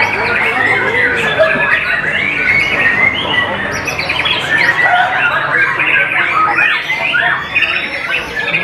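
White-rumped shama singing, a dense, unbroken run of quick, varied chirps, whistled glides and harsh notes.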